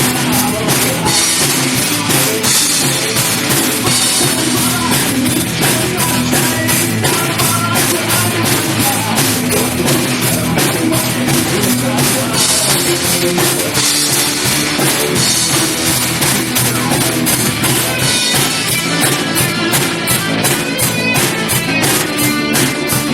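Live rock band playing an instrumental passage with no vocals: a full drum kit with regular hits, plus guitars and bass.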